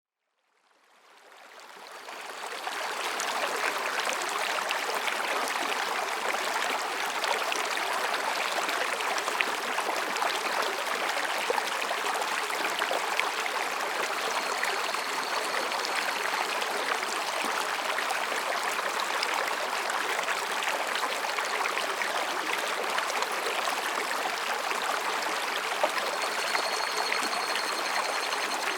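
Mountain stream babbling and rushing over rocks, a steady water sound that fades in over the first few seconds.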